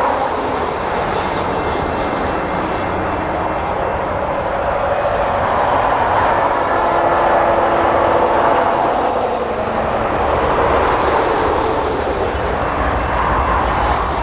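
Freight train running past: a steady loud rolling noise that swells and fades every few seconds.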